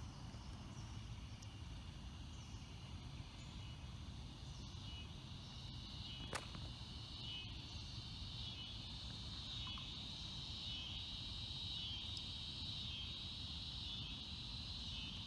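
Insects chirping in a steady high-pitched chorus that pulses evenly and grows louder in the second half, over a low outdoor rumble. A single sharp click sounds about six seconds in.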